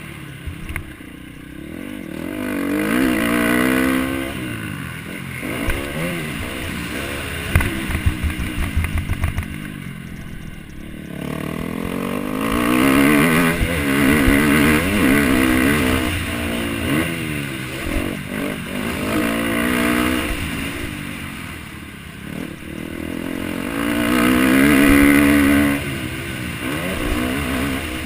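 MX1 motocross bike engine revving hard and easing off again and again as it works round the track, its pitch climbing and dropping repeatedly. A quick run of sharp clattering knocks comes about a third of the way in.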